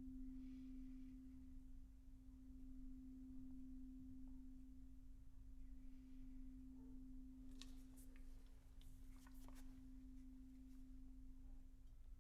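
Faint, sustained single tone of a sound-healing instrument, held at one steady pitch throughout. A few soft clicks come a little past the middle.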